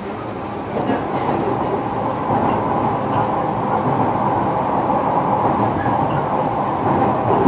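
Inside a JR Kyushu 305 series electric train's motor car while it runs: a steady rumble of wheels on rail, growing louder about a second in, then holding.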